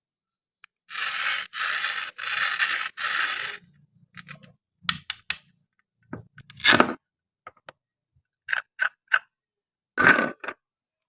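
Four short rasping strokes, a scraping or tearing noise, then scattered light clicks and taps of small objects being handled.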